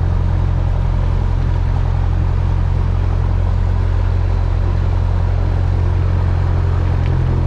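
Cessna 172's piston engine idling at about 1,000 RPM after start, a steady low drone heard from inside the cockpit.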